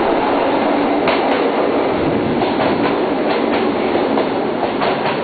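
Electric train running on the rails: a steady rumble, with wheel clacks over rail joints coming every half second or so, mostly in the second half.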